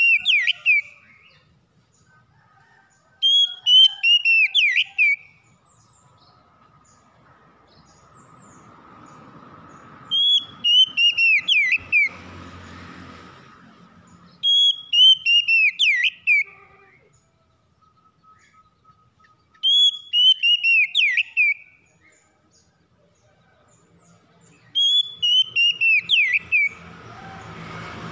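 A songbird repeating the same short phrase of clear, descending whistled notes, five times at intervals of a few seconds. A faint low rumble swells in the middle and again near the end.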